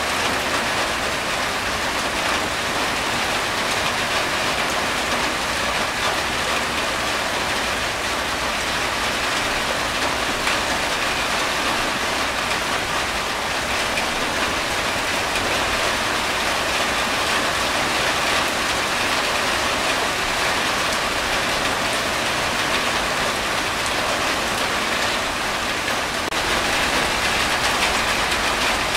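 Steady rain falling on a corrugated tin roof, an even, unbroken patter.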